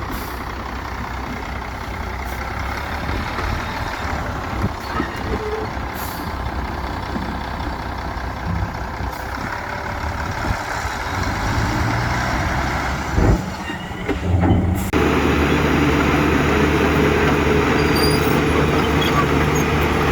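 Heavy diesel construction machinery running steadily, dump truck and bulldozer engines. About two-thirds of the way through there is a short louder burst, then the sound changes abruptly to a louder, steadier engine drone.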